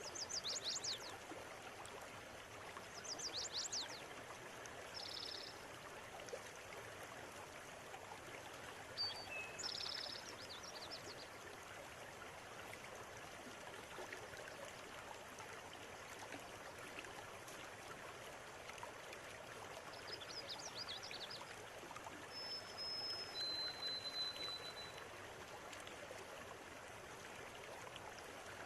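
River water flowing steadily with a continuous rushing babble. Birds call over it: short rapid trills several times in the first half and again past two-thirds, then two thin held whistles, the second lower than the first.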